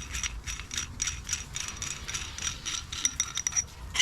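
Ratchet wrench clicking in quick, uneven runs while working the nut on a threaded-rod bearing puller used to pull an engine's cam bearing.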